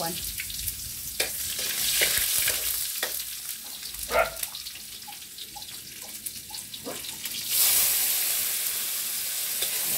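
Garlic sizzling in hot oil in a wok over a wood fire, with scattered pops. About three-quarters of the way in, the sizzle suddenly grows much louder as sliced tomatoes go into the hot pan.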